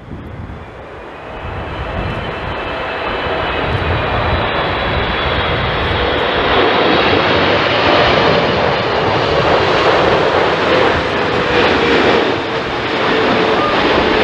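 Jet airliner's engines on approach: a loud rushing noise with a faint whine. It grows louder over the first several seconds as the plane comes in, then holds steady.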